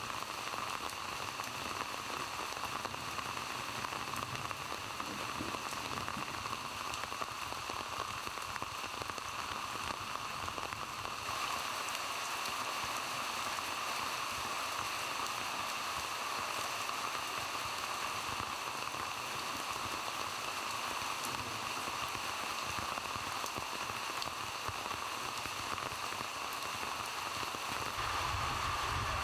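Heavy rain pouring down steadily, drops pattering on leaves, puddles and ground, with a deeper rumble joining near the end.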